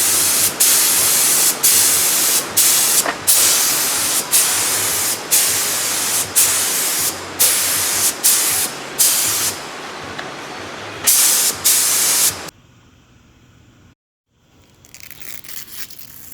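Air-fed paint spray gun hissing in repeated trigger pulls about a second long with short breaks, laying wet coats of paint on a car body panel. The spraying stops abruptly about twelve seconds in, leaving faint rustling.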